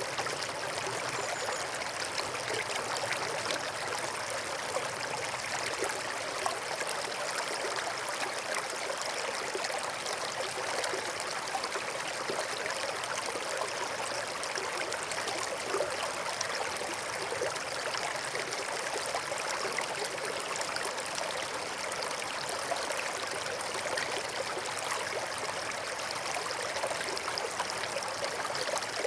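Stream of water running and trickling over stones, a steady babbling that stays even throughout.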